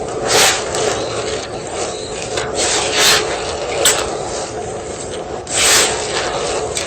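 A block of gym chalk being crushed and crumbled, a continuous gritty rubbing broken by several louder crunches, the longest near the end.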